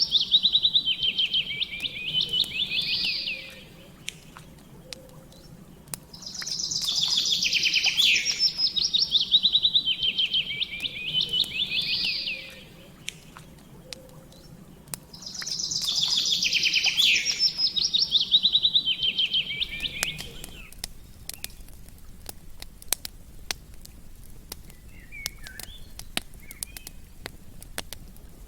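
A songbird singing a fast trilled phrase, about four seconds long, three times roughly every nine seconds. A campfire crackles under it with sharp pops and snaps that carry on alone in the last third.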